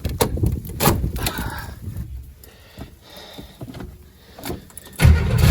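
A few clicks and rustles of handling inside a car, then about five seconds in a car engine suddenly starts cranking over with a loud low rumble, an attempt to start it that is not yet catching.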